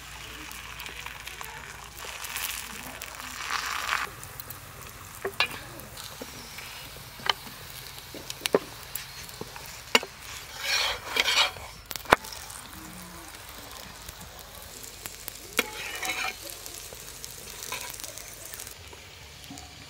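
Paratha frying in oil on a tawa griddle, a steady sizzle that swells now and then, with a metal spatula clicking and scraping against the pan about six times.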